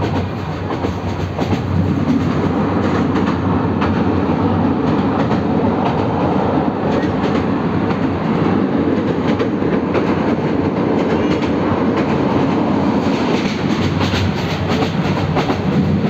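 Passenger train running at speed, heard from a carriage window: a steady rumble and rush of wind, with irregular clicks of the wheels over rail joints.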